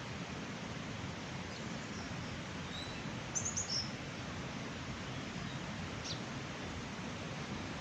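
Small birds chirping over a steady rushing noise: a quick run of high chirps about three seconds in, and a single short note near six seconds.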